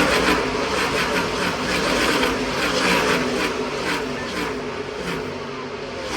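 A pack of NASCAR V8 race engines at racing speed. Car after car passes, each engine tone falling as it goes by, and the whole sound eases slightly near the end.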